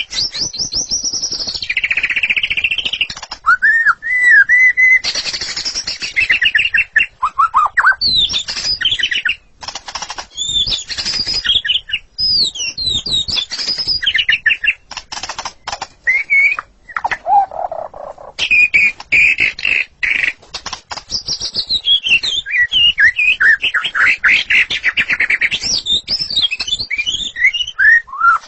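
White-rumped shama singing a long, loud, varied song of rising and falling whistles and warbled phrases, mixed with sharp clicking notes.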